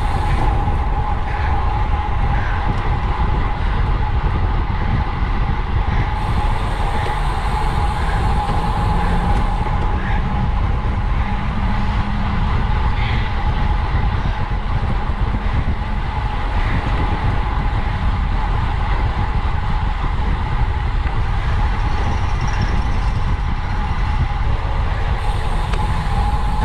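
Steady wind rushing over the microphone of a camera on a road bicycle at race speed in a criterium, with a constant high hum running under it.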